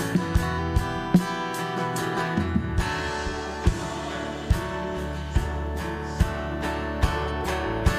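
Instrumental worship band music led by guitar. About three seconds in, a fuller bass and a steady beat of about one thump a second come in.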